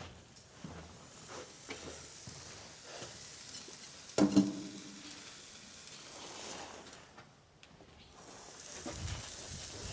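Hot horseshoe sizzling as it is pressed against a horse's hoof during hot fitting, with small clicks and a brief loud sound about four seconds in.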